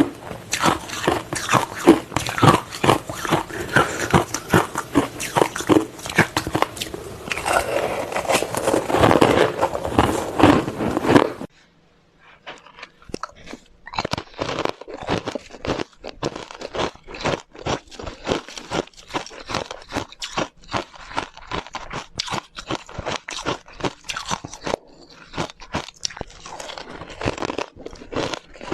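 Close-miked crunching and chewing of ice, a rapid irregular series of hard crunches. About eleven seconds in it breaks off briefly and resumes quieter and duller, as another recording of ice chewing takes over.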